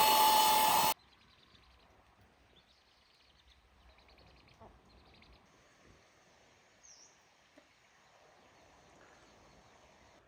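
A loud, high whine from a power tool cuts off suddenly about a second in. It leaves faint outdoor background noise with a few soft bird chirps.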